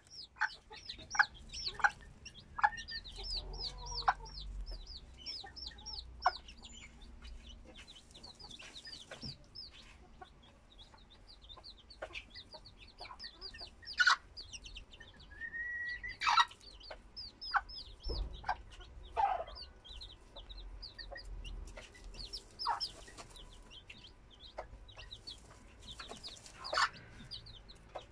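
Chicks peeping: a steady stream of short, high, falling peeps, several a second, with occasional louder calls standing out.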